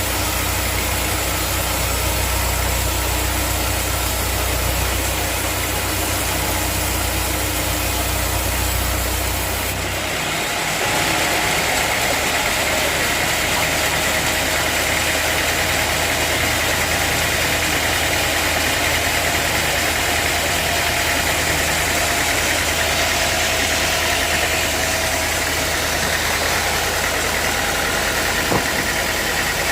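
Sawmill machinery running steadily. About ten seconds in, the deep hum drops away and a higher-pitched noise takes over.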